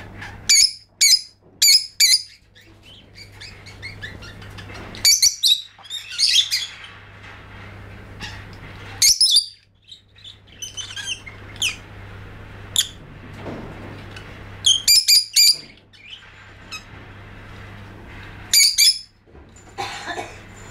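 Lovebird chirping: short, shrill calls in quick clusters of two to four, repeated every few seconds, over a faint steady low hum.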